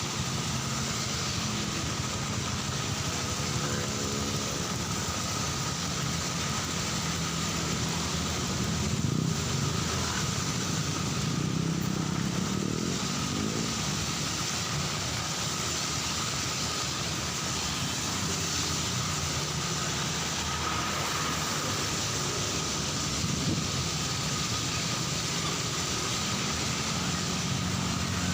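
Heavy rain falling steadily, with road traffic: cars and motorcycles running past, their engines rising and falling in pitch as they go by.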